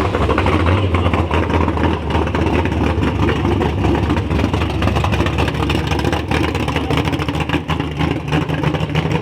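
Car engine running with a deep, steady exhaust rumble; a second low hum joins about seven seconds in.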